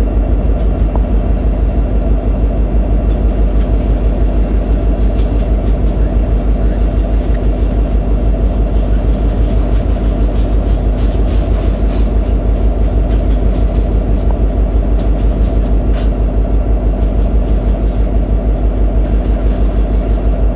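Union Pacific freight train rolling past, a loud steady rumble of the cars with a fast even pulse and a few faint clicks from the wheels.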